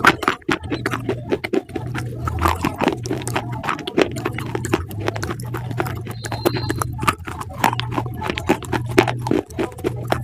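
An animal crunching and chewing food, with dense, rapid crunches throughout and a low hum that comes and goes underneath.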